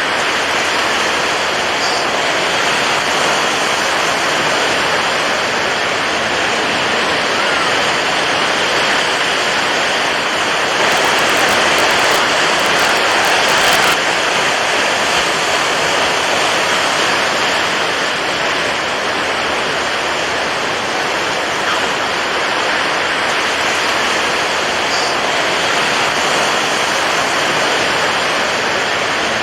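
Steady rushing water, an unbroken wash of noise that swells slightly about halfway through.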